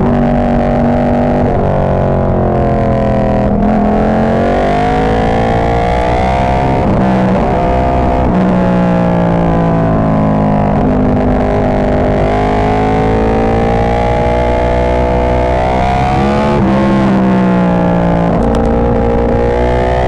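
Ducati 1299 Panigale's 1285 cc L-twin running hard through an Austin Racing GP2 full exhaust, its revs climbing and dropping several times while under way. The sound is loud and distorted because the mic is overdriven by the exhaust.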